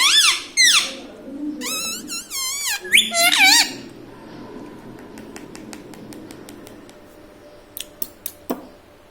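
Indian ringneck parakeet calling in two bouts of high, rapidly wavering warbles in the first few seconds, then a few sharp clicks near the end.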